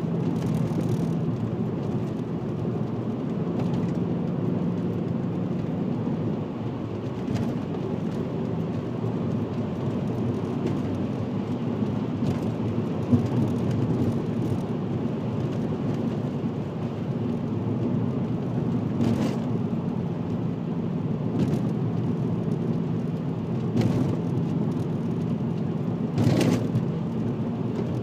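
VW Passat W8's 4.0-litre W8 engine running through a custom stainless exhaust with twin rear mufflers while the car drives along, a steady low drone with an engine hum that rises and fades, over tyre and road noise. A few short knocks from the road can be heard.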